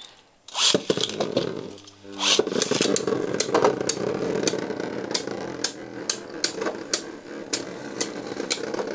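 Beyblade Burst tops launched into a stadium: a launcher's rising whir about two seconds in, then the tops spinning with a steady whir broken by frequent sharp clicks as they strike each other and the stadium.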